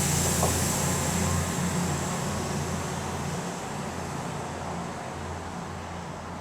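A passing train fading into the distance: a steady low engine drone with a thin high whine, both growing gradually quieter.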